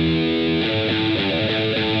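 Rock song intro on electric guitar with a distorted tone: a held chord rings, then about half a second in it moves into a run of picked notes.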